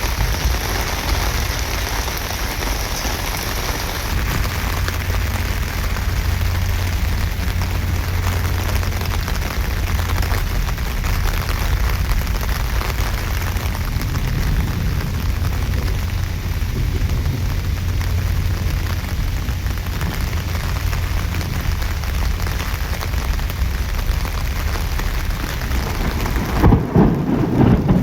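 Heavy rain falling steadily, with a continuous low rumble underneath. Near the end the sound changes, the hiss thinning as a lower, choppier sound comes in.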